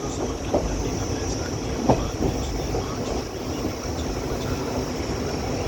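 Steady low rumble and hiss of a moving vehicle, with a few short sharp knocks about half a second and two seconds in.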